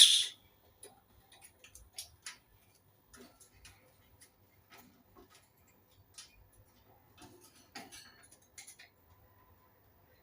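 An Indian ringneck parakeet's loud screech cuts off just after the start, followed by scattered soft clicks and ticks.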